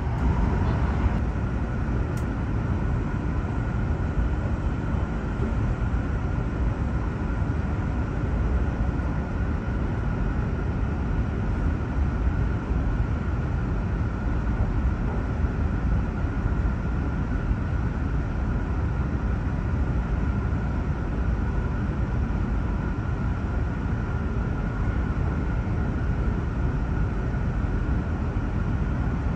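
Steady running noise inside the cabin of a JR East E7 series Hokuriku Shinkansen train under way: an even low rumble from the running gear and air, with a thin steady tone above it.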